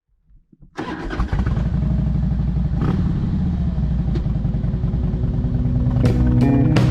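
Harley-Davidson Twin Cam 88 V-twin engine starting up about a second in and then running steadily with a low rumble. Music with a beat comes in near the end.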